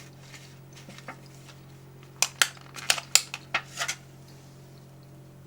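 Snack packaging being handled: a quick run of about eight sharp clicks and taps in the middle, over a steady low hum.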